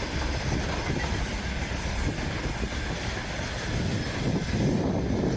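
Freight train wagons rolling past: a steady rumble and rattle of wheels on the track.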